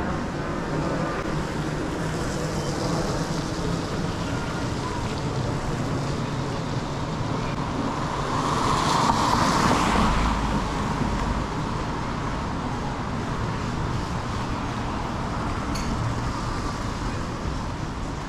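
Street traffic noise, with one vehicle passing about nine seconds in, its tyres hissing on the wet road as it swells and fades.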